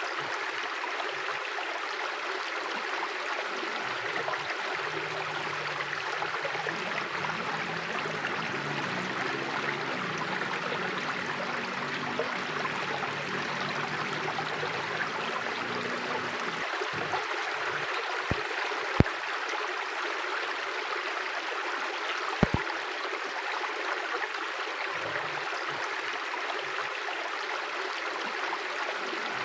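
Mountain river flowing steadily: an even rushing of water, with a few sharp clicks a little past halfway.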